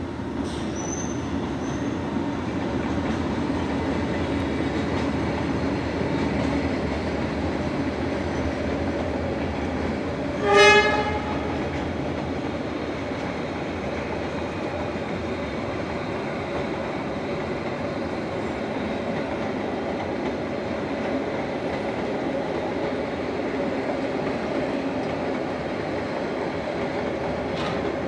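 Train running with a steady rumble and clatter of wheels on the rails. About ten seconds in it sounds one short horn blast.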